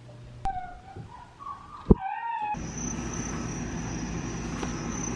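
Labradoodle puppy whining in short, high-pitched whimpers that bend up and down, with a couple of sharp clicks between them. About halfway through, the whimpers give way to a steady hum with a thin high tone.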